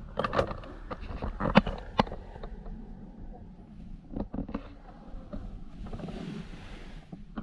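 Inside a vehicle's cabin: a steady low rumble with scattered clicks, knocks and creaks from the interior.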